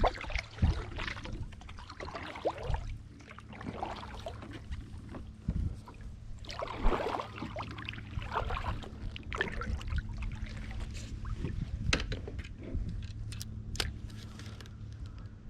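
Water splashing and trickling against a small kayak, with scattered soft splashes and a few sharp clicks and knocks near the end.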